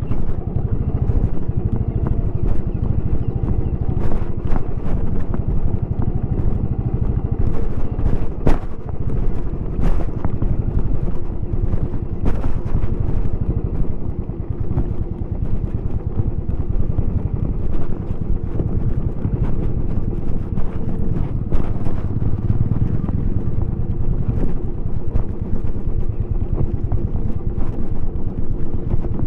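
Royal Enfield Bullet 350X's single-cylinder engine running through its stock exhaust while being ridden, a steady low exhaust note. A few sharp knocks stand out over it, the strongest a little after 8 seconds in.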